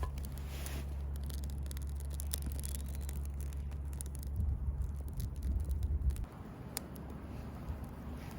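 A steady low hum that stops suddenly about six seconds in, with scattered light clicks over it.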